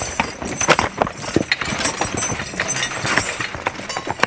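Draft horse team walking over rocky ground, hooves clopping and knocking irregularly, with wooden knocks from the log cart they are pulling.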